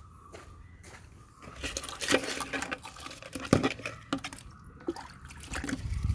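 Water splashing as it is poured into the radiator of a 1996 Hindustan Ambassador car, with several sharp knocks, the loudest a little past halfway.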